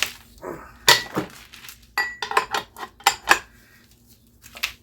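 Metal hand tools clinking and clanking against a Tecumseh small engine's parts during teardown: a string of sharp knocks, a couple ringing briefly, with a quieter stretch before one last knock near the end.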